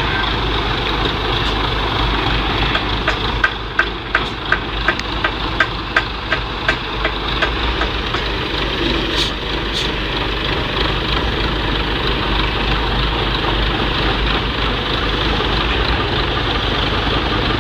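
A vehicle engine running steadily. About three seconds in, a run of sharp regular clicks, about three a second, lasts some five seconds.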